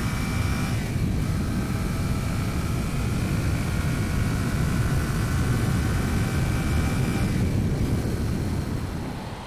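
Motorcycle being ridden, heard from a camera on the bike: a heavy, steady rush of wind on the microphone with the engine running underneath, easing off slightly near the end.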